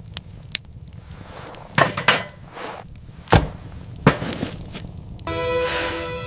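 A few sharp knocks or impacts, the loudest about halfway through, followed near the end by a steady, held pitched tone.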